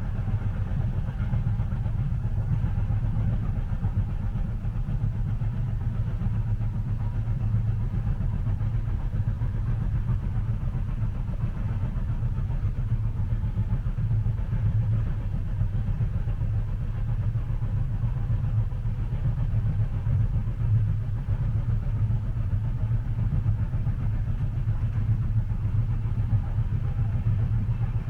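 Steady low rumble of a passenger train running, as heard inside the carriage, with a soft even hiss of running noise over it.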